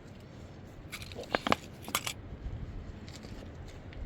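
A few short, sharp clinks, bunched together between one and two seconds in, with a fainter one about three seconds in.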